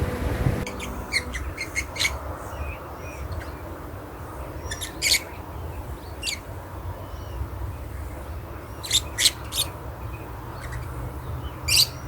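A bird giving short calls, singly and in quick runs of two or three, over a steady low background rumble.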